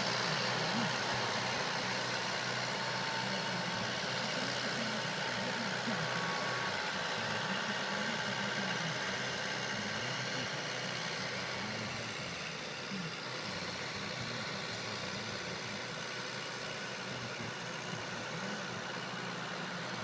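Kubota tractor's diesel engine running steadily at a low, even speed.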